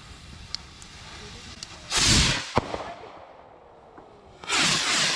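Firework rockets launching: a short loud hissing whoosh about two seconds in, a sharp crack just after it, then a second hissing launch near the end.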